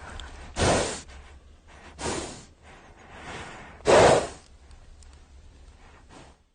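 A horse snorting three times, short noisy blows of air through the nostrils, the last one the loudest.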